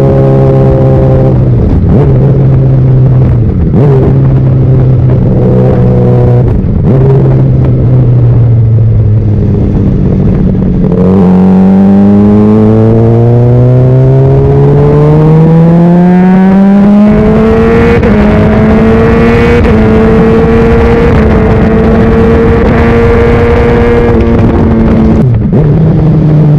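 Honda CBR600RR's inline-four engine under way. The engine note wavers with a few short dips at first, then climbs in one long rising pull from about halfway. It holds a high steady note for several seconds before dropping off near the end.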